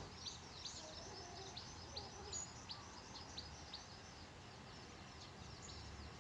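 Faint bird chirping: a quick run of short, high, downward-sliding chirps, several a second, which die away after about four seconds.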